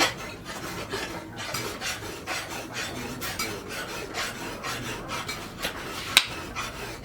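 Repeated hand strokes of an abrasive working a steel knife blade, several strokes a second and uneven in rhythm. One sharp metallic click stands out about six seconds in.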